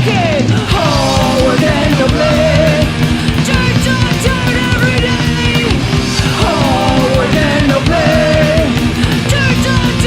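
Punk rock band playing a loud recorded song: distorted electric guitars, bass and drums, with a melody sliding up and down over them.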